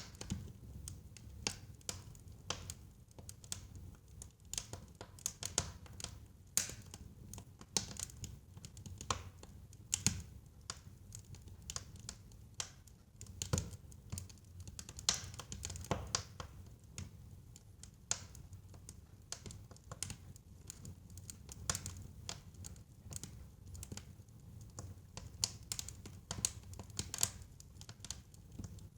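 Wood fire crackling in a fireplace: a steady stream of irregular sharp pops and snaps over a low rumble of burning.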